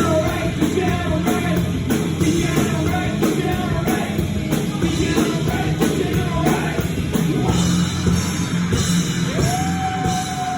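Loud rock band demo recording: sung and shouted vocals over a full band. Near the end a single held note bends up and sustains.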